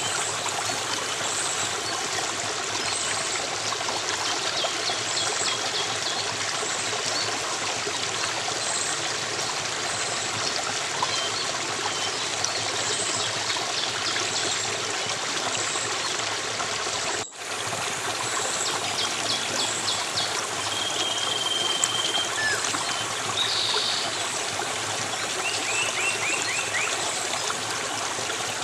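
Stream water running steadily, with small birds chirping faintly and a few short trills over it. The sound cuts out for a split second about seventeen seconds in.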